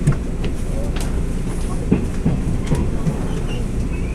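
Interior rumble of a Taiwan Railway EMU1000 electric multiple unit rolling along, its wheels knocking irregularly over rail joints and points as it runs into a station.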